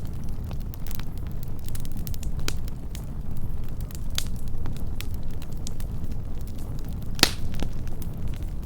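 Wood campfire burning close up: a steady low rumble of the flames with scattered sharp crackles and pops, and one louder snap about seven seconds in.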